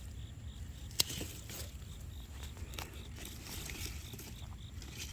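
Outdoor background with a steady low rumble and a few sharp clicks of handling, the loudest about a second in.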